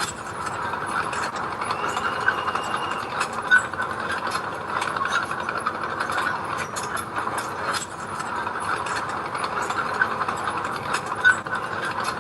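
Bulldozer working: its diesel engine runs under a steady clattering din from the steel tracks, with scattered clanks and knocks throughout.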